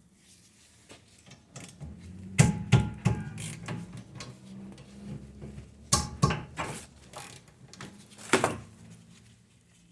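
Brake parts being handled: irregular clicks, knocks and rattles, loudest in clusters about two and a half seconds in, around six seconds, and one sharp clatter near the end.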